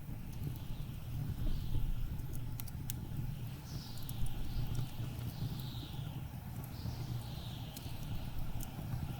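Blizzard wind blowing with a deep, steady rumble and whistling gusts that sweep down in pitch every second or so, over a few sharp crackles and pops from a burning wood fire.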